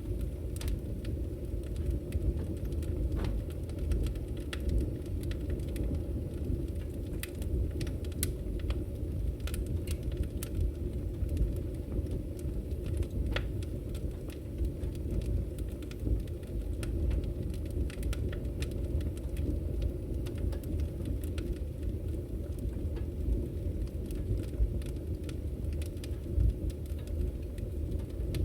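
Wood fire burning in a fireplace: irregular sharp crackles and pops from the burning firewood over a steady low rumble.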